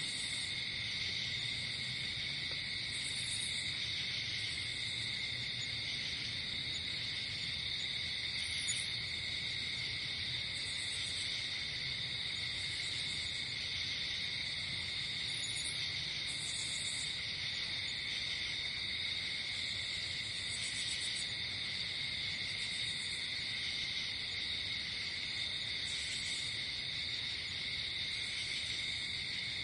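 Night insect chorus of crickets chirring steadily without a break, with short, higher-pitched buzzy calls from other insects coming in every second or two.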